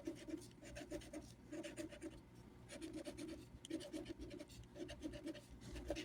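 Scratch-off lottery ticket being scratched, a run of short rubbing strokes in quick bursts with brief pauses between them.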